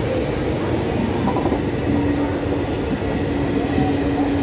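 Indian Railways express train's passenger coaches running past at speed, a loud, steady rumble and rattle of wheels on rail. A steady low tone joins the rumble about two seconds in.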